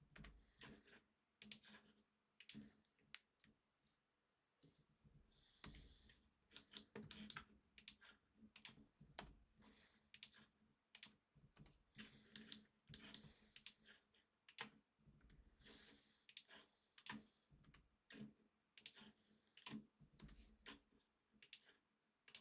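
Faint, irregular clicking of a computer mouse and keyboard, about one or two clicks a second, with a faint steady hum underneath.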